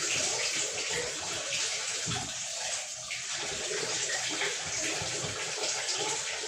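Water running steadily and splashing, as dirt is rinsed out of a washing machine's clogged drain valve parts.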